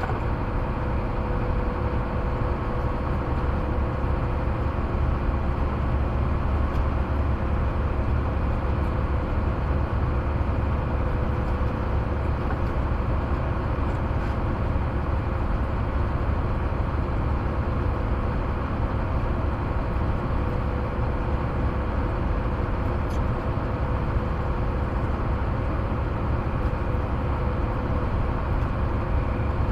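Semi-truck's diesel engine running steadily, heard from inside the cab: a constant low rumble with a steady hum above it.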